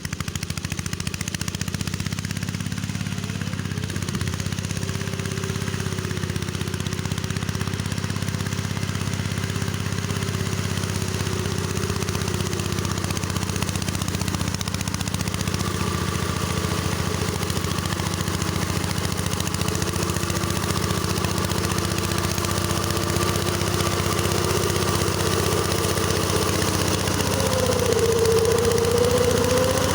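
Engine driving a belt-driven rotary mower, running steadily under load while mowing grass, with a wavering higher whine over the engine note. The owner calls the engine too weak for the job, so the mowing goes slowly. The sound grows a little louder near the end.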